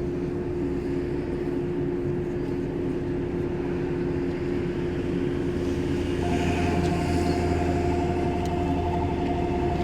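Shinano Railway 115 series electric train standing at a station with a steady electrical hum from its equipment under the floor. About six seconds in, the low hum grows a little louder and a pulsing high tone starts.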